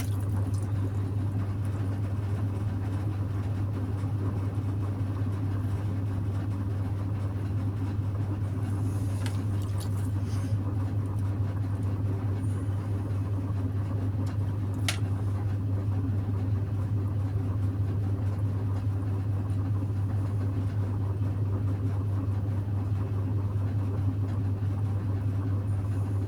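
Electric potter's wheel running with a steady low hum, with a couple of faint clicks partway through.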